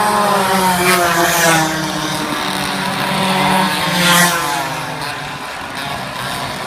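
Racing minibike engines revving hard as bikes pass close, twice: about a second and a half in and again about four seconds in, the engine pitch dropping as each one goes by. A steadier engine note runs underneath.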